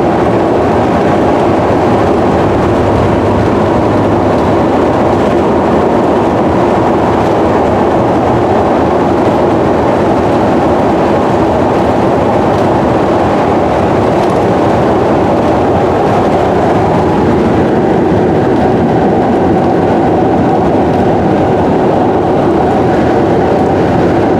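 Steady road noise of a vehicle travelling at highway speed, heard from inside: an even rumble and hiss at a constant level with no breaks.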